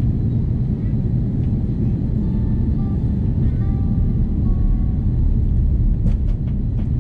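Airbus A330 cabin noise: the steady low rumble of the engines and airflow heard from inside the passenger cabin, with a few faint clicks near the end.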